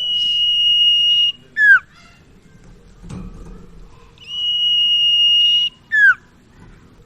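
Common iora (sirtu/cipoh) singing. Each phrase is a long, steady, high whistle held for about a second and a half, then a short, sharply falling note. The phrase comes twice.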